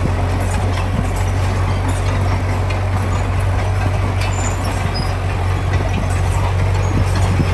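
Heavy diesel engine of earthmoving machinery running steadily: a deep, even drone with scattered faint clicks over it.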